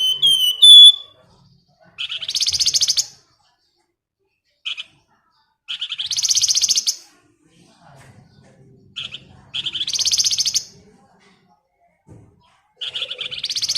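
Flamboyan songbird calling: a few short chirps at the start, then four rapid buzzy rattling phrases about a second long, spaced roughly every four seconds, with a brief single note between some of them.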